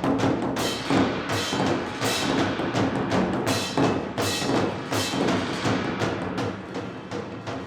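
Live percussion ensemble music: rapid, dense drum strokes over held pitched notes beneath.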